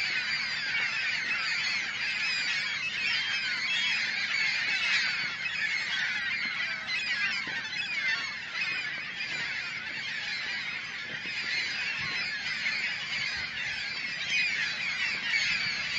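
A large flock of gulls calling continuously, many short cries overlapping into a dense, unbroken din.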